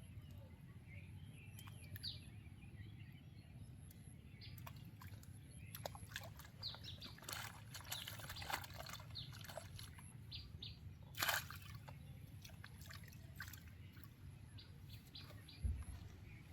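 Quiet outdoor ambience by the water: a steady low rumble with scattered short ticks and chirps, a sharper click about eleven seconds in and a low thump near the end.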